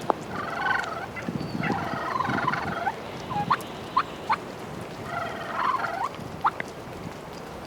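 Wild turkey gobblers gobbling: three rattling gobbles about a second long each, with a few short sharp calls in between.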